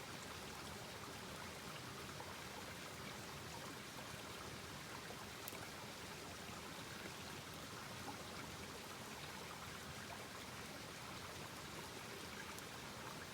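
Wood campfire burning with a steady, faint hiss and light crackling, and one sharper pop about five and a half seconds in.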